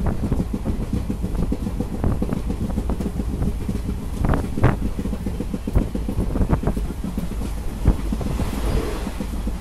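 Train running, a steady low rumble with scattered clanks and knocks, with wind buffeting the microphone.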